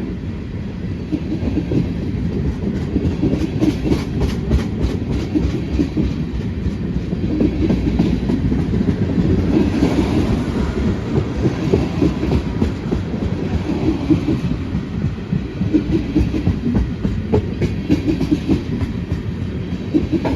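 Railroad cars rolling past with a steady rumble and repeated clicks as the wheels cross rail joints.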